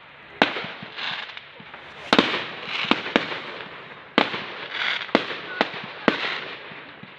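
Firework display shells bursting: a string of sharp bangs, roughly one every second with a few close together, each trailed by a fading crackling hiss.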